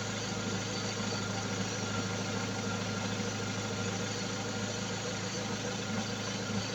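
Renault Laguna II's four-cylinder 2.0 petrol engine idling steadily.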